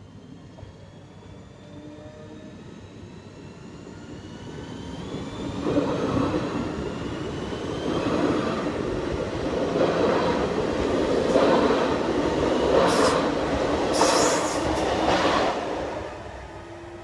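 Electric multiple-unit passenger train approaching and running past on the rails. Its noise builds from about four seconds in and is loudest in the second half, with a few sharp screeching bursts near the end, then drops away quickly as the train clears.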